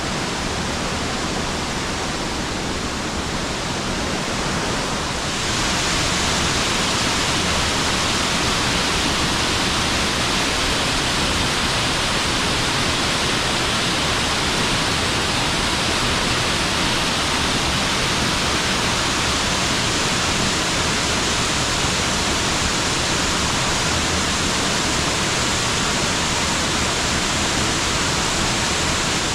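Waterfall rushing steadily, a constant white-noise roar of falling water that grows louder and brighter about five seconds in.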